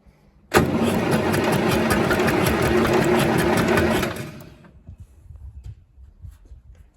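A motor-driven machine starts abruptly and clatters loudly and rapidly, with a fast even rhythm, for about three and a half seconds, then winds down. Faint irregular ticking follows.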